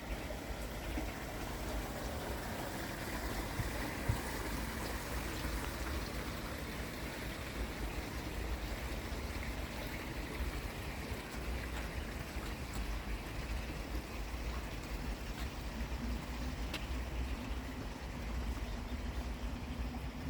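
Steady outdoor rushing noise with a low rumble underneath, even throughout.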